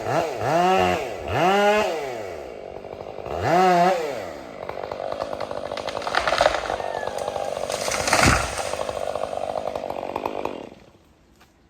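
Chainsaw revved up and down three times, then held at high revs cutting into wood for about six seconds, released near the end.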